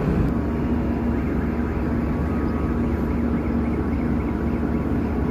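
Heavy machinery running steadily with a low rumble and a constant hum, typical of ship or port cargo-handling equipment.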